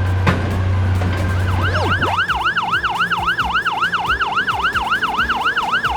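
A low steady drone for about the first two seconds, then an emergency-vehicle siren in a fast yelp, rising and falling about four to five times a second.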